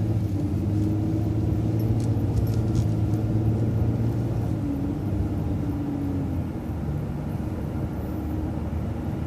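City transit bus engine and drivetrain running while driving, a steady low hum with a whine that drops in pitch about five seconds in as the bus eases off.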